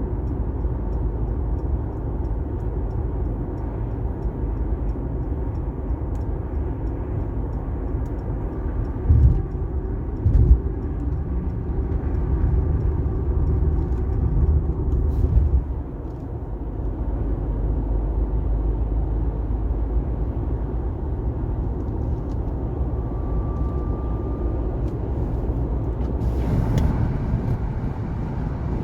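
Car driving on a wet highway: a steady low road and tyre rumble, with two sharp thumps about nine and ten seconds in and a brief hiss near the end.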